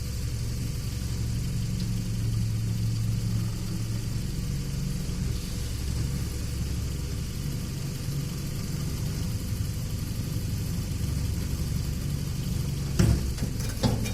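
Engine of a homemade all-terrain vehicle idling steadily, with a few sharp knocks near the end as the exhaust-pipe hose fitting is handled.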